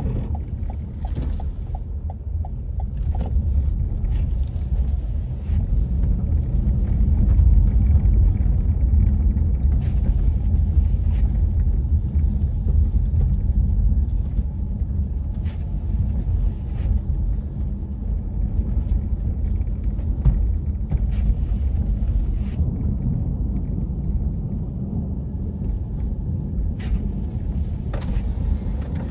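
Steady low rumble of a city street outdoors, with passing traffic, a little louder a few seconds in, and a few faint ticks.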